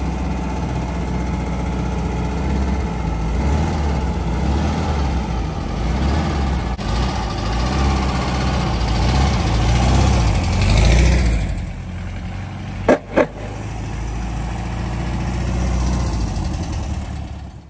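The air-cooled flat-four engine of a 1970 VW Beetle runs steadily, swells in revs about ten seconds in, then eases off. About a second later come two short, sharp blips close together.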